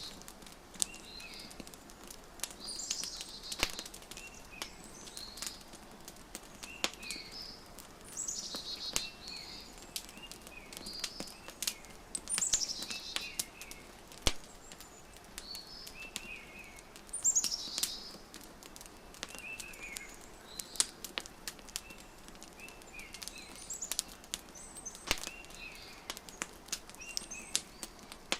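Wood fire crackling with sharp scattered pops, under songbirds chirping. One bird repeats a quick falling call every four to five seconds, with shorter chirps in between.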